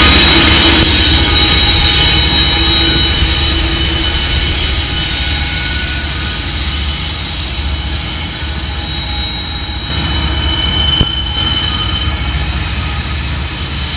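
Freight train wheels squealing on a curve, several steady high-pitched tones held together, over the low rumble of the rear GE ES44AC-H diesel locomotive as it passes. The sound slowly fades as the train draws away, with one sharp click about 11 seconds in.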